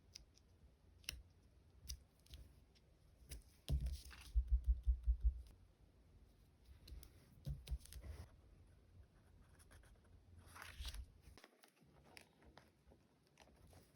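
Close-up handling of stickers, paper and plastic packaging: scattered light clicks and short rustles. About four seconds in comes a quick run of soft low taps, and a brief rustle follows near the end.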